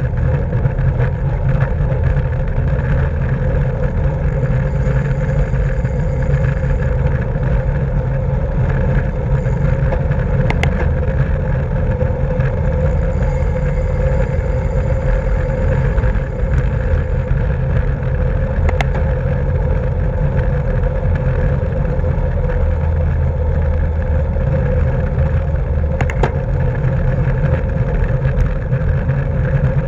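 Steady rush of wind and road noise on a camera microphone riding on a racing bicycle, heaviest at the low end, with a sharp click three times.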